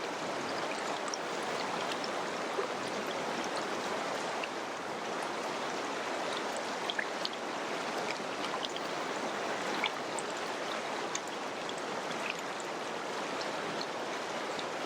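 Mountain river flowing: a steady rush of water with many small splashes and drips scattered through it.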